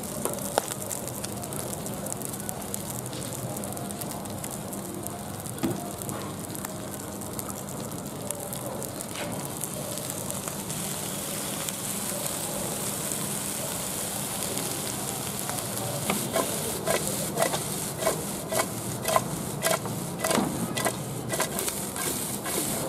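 Small eels frying in a hot wok with a steady sizzle. Past the middle, a spatula starts scraping and knocking against the wok in quick irregular strokes as the eels are tossed.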